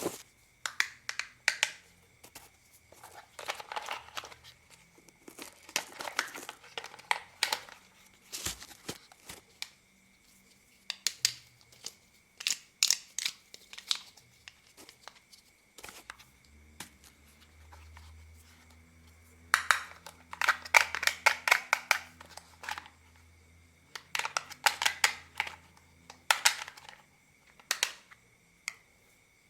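Plastic toy car being unscrewed and taken apart by hand: repeated bursts of rapid clicking and plastic crackling, each a second or two long, with short pauses between. A faint low hum runs under the second half.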